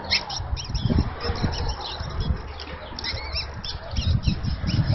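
Birds chirping and squawking in a rapid run of short, high calls that overlap, with scattered dull low thumps underneath.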